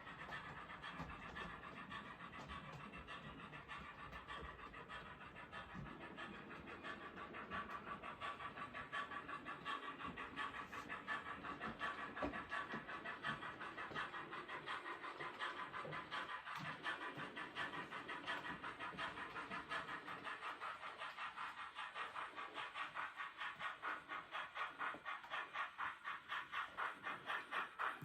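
Sound decoder of a Rapido OO gauge 15XX pannier tank model playing steam chuffs through its small onboard speaker, an even beat that grows louder toward the end.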